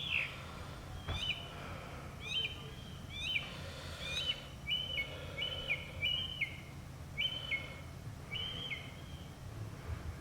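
Northern mockingbird singing, repeating one phrase type several times before switching to another. Short notes that rise and drop sharply give way, about halfway through, to a run of longer, level notes, each repeated several times.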